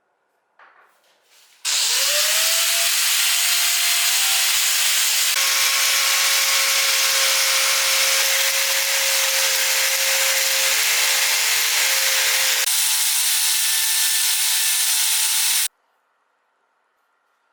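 Electric power tool spinning up with a quick rise in pitch, then running steadily with a loud abrasive hiss, as when grinding or sanding rusty metal; it stops suddenly near the end.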